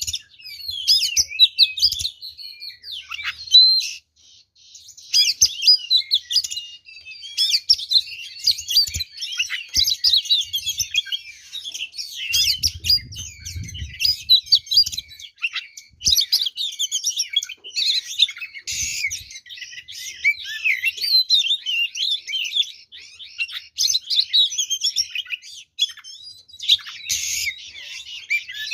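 Oriental magpie-robin (kacer) singing a fast, continuous, varied song of rapidly changing whistles and chirps, the full-repertoire song packed with mimicked notes, with a brief pause about four seconds in.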